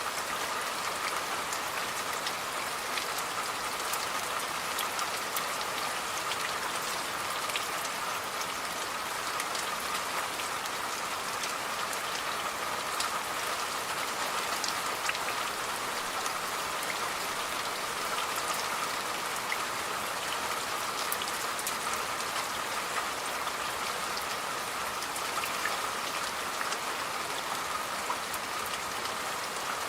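Steady rain falling, with many separate drops ticking on a surface over an even hiss.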